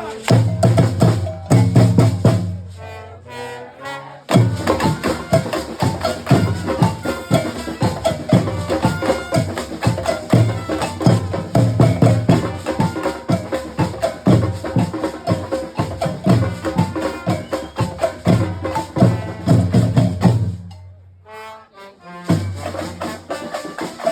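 Live percussion ensemble playing a fast, dense rhythm of drums and sharp, wood-block-like strikes. The group is known for playing on recycled scrap objects. The playing thins out briefly a few seconds in, and near the end it falls to a short near-break before starting again.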